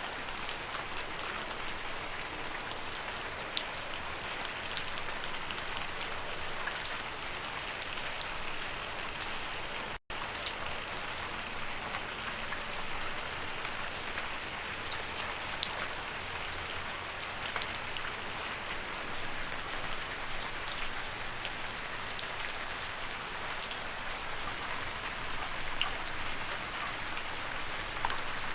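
Steady rainfall: a constant hiss of rain with many individual drops ticking sharply on a surface. It cuts out for a brief instant about ten seconds in.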